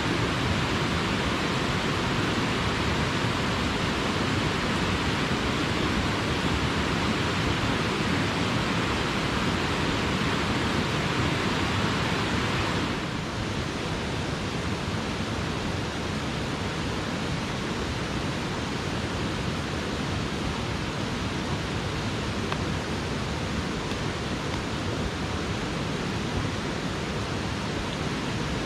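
Mountain stream water rushing steadily. A little under halfway through, it drops slightly in level and loses some of its upper hiss.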